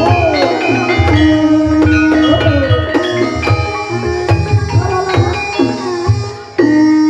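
Javanese gamelan music accompanying an ebeg horse dance: kendang hand-drum strokes under struck metal-keyed notes, with a gliding melody line bending over the top. The music dips briefly about six seconds in, then comes back loud.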